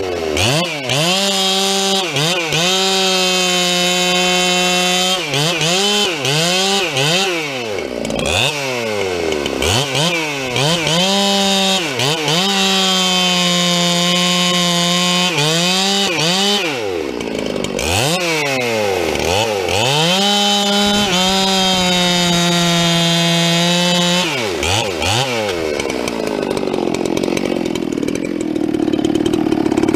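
Dolmar 7300 chainsaw bucking firewood. It revs up and down in quick blips, then holds a steady high pitch at full throttle through three long cuts, and drops back to a low, rough idle near the end.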